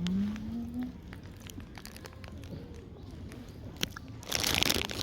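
Wood campfire crackling with scattered sharp pops. At the start a low voice rises in pitch and trails off. Near the end there is a brief loud rustling burst.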